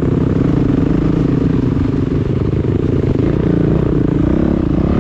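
Motocross bike engines running loud, their pitch rising and falling as the throttle is worked, with a rising rev near the end.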